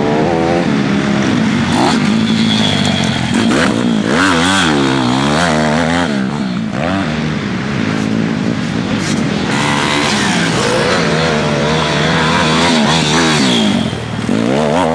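A 160 cc pit bike engine revving up and down again and again as the bike is ridden, its pitch rising and falling every second or two.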